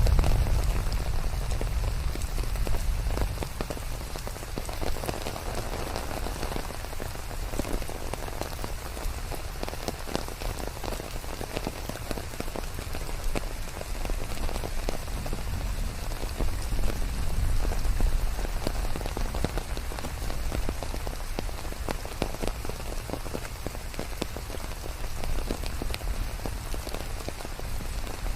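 Steady rain falling in a forest: a dense patter of drops over a constant hiss, with a deep low rumble underneath.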